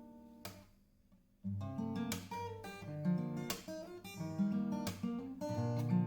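Solo acoustic guitar music. A held chord fades out and the playing pauses briefly about a second in, then a new passage of plucked notes and strums begins.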